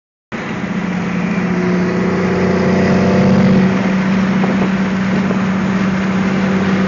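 Diesel truck engine running steadily at highway speed, a strong low drone over road noise. It starts abruptly just after the beginning and grows a little louder over the first few seconds.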